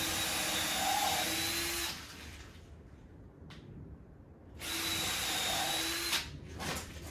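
Power drill driving 100 mm screws into timber, in two runs of about two seconds and a second and a half, each a steady motor whine. A few knocks follow the second run near the end.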